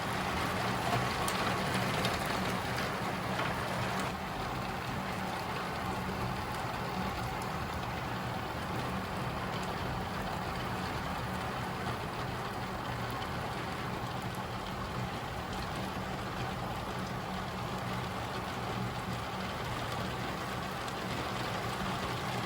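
Torrential thunderstorm rain, possibly mixed with hail, pounding on a roof and skylight, heard from inside as a dense, unbroken patter. It is a little heavier for the first few seconds, then holds steady.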